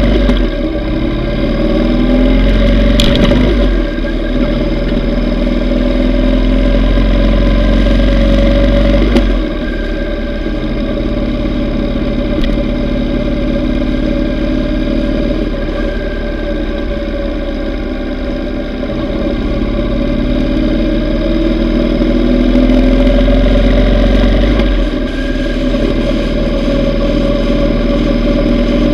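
Yamaha V Star 950's air-cooled V-twin running under way, its pitch rising and easing with the throttle. Wind rumble on the microphone comes and goes, and there is a single sharp click about three seconds in.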